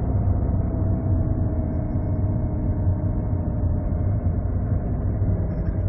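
Steady low engine and road rumble inside a moving car's cabin, with a faint steady hum above it.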